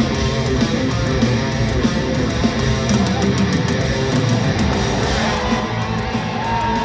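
Heavy metal band playing live: distorted electric guitar lead with fast-moving lines over rhythm guitar, bass and drums, ending on a long held, bent note near the end.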